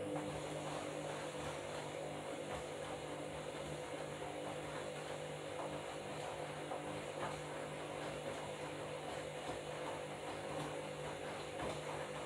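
Washing machine running: a steady motor hum with a rough, churning noise underneath.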